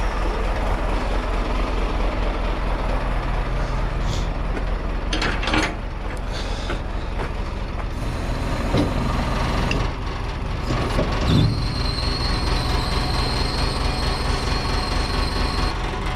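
Truck engine idling steadily, with a few knocks and clanks from the load being secured, and a steady high whine starting about three-quarters of the way through.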